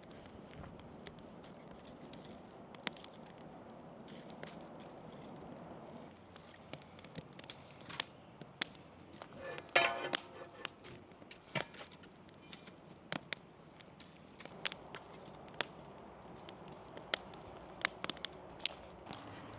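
Open wood campfire crackling, with sharp irregular pops over a steady low rush. About ten seconds in, a brief pitched sound, a voice or animal call, stands out.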